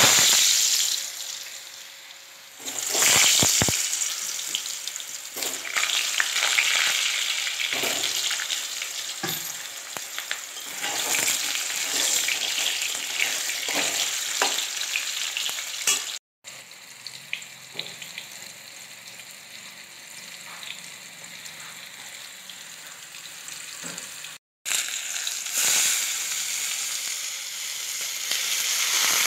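Potato chunks frying in hot oil in a metal kadai, a loud sizzle that fades and swells, with the scrape and clink of a metal spatula turning them. Near the end the sizzle surges loudly again as sliced onions go into the oil.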